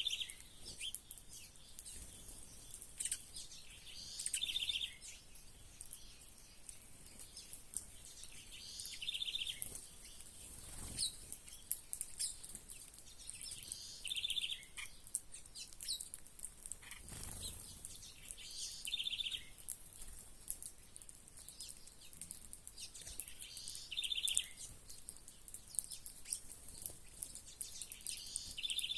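Several small birds chirping and calling, with one short, buzzy, pulsed call repeated about every five seconds over scattered high chirps.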